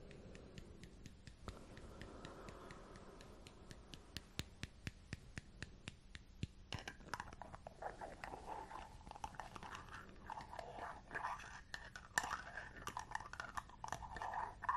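Close-miked handling of a glass jar of hair balm: a run of light, quick taps and clicks, then denser crackly rubbing and scratching from about seven seconds in.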